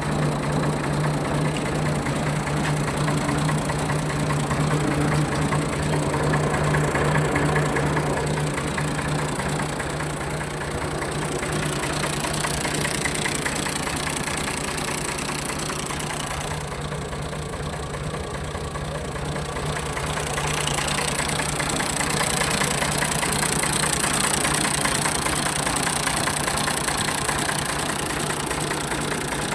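Ford 4610 tractor's three-cylinder diesel engine idling steadily, dipping slightly in level about two-thirds of the way through.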